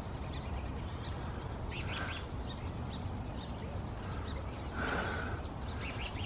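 Wild birds chirping in short, scattered calls: a burst about two seconds in and more around five to six seconds in. Under them runs a steady low background hum.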